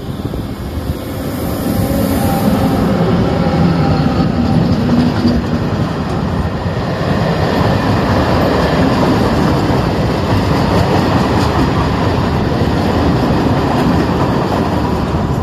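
A CAF Bitrac locomotive passes close by, followed by a line of yellow track-maintenance hopper and container wagons. Their wheels make a loud, steady rumble on the rails, with a hum in the first few seconds as the locomotive goes by.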